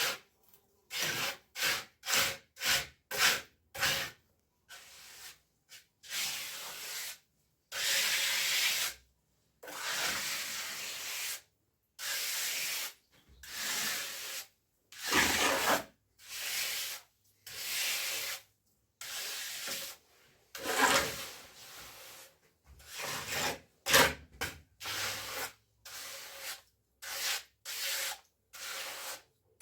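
Repeated rough scraping strokes of a hand tool worked over a hard, gritty surface: a quick run of short strokes at first, then slower strokes of about a second each.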